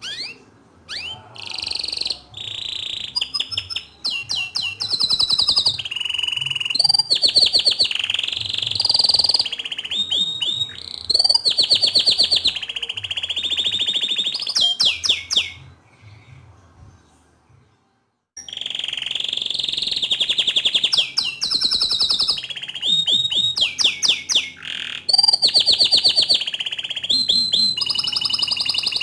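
Green (Kenari Hijau Botol) domestic canary singing loud, fast trills and rolling phrases. The song stops for about two seconds a little past the middle, then resumes.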